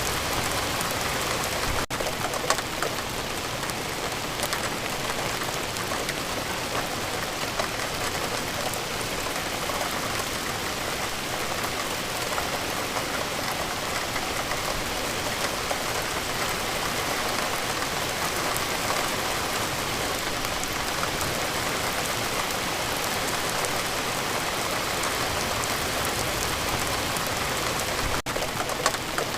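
Steady rain falling, an even hiss of water with many small drops ticking on a surface. The sound dips for an instant twice, about two seconds in and near the end.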